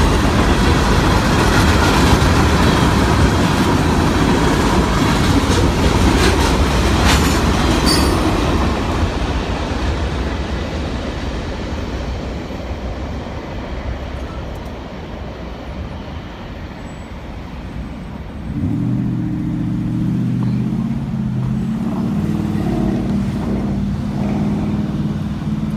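Freight train's cars rolling through a grade crossing, wheels clattering over the rails, the noise dying away after the end of the train passes about eight seconds in. About three-quarters of the way through, a road vehicle's engine starts up loudly with a low steady hum.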